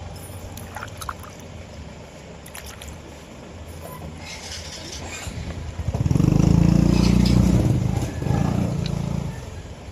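A motor or engine runs loudly for about three and a half seconds, starting some six seconds in, with a brief dip near the end; before it there is only a low steady hum.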